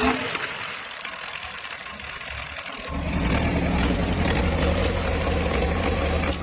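Restored diesel engine running. In the first three seconds its low running sound drops away and only a quieter hiss is left, then about three seconds in it comes back and runs steadily.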